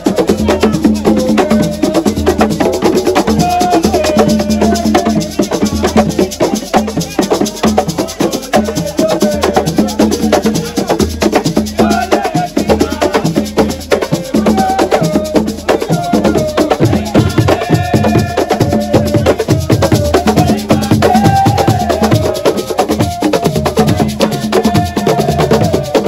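Assiko music: a fast, driving rhythm of drums and sharp struck percussion, with voices chanting or singing over it.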